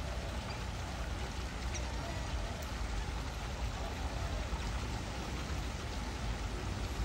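Steady hiss of light rain, with a low rumble underneath.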